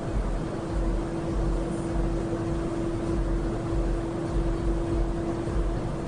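Semi-truck engine and road noise heard from inside the cab while driving: a steady hum with an uneven low rumble beneath it.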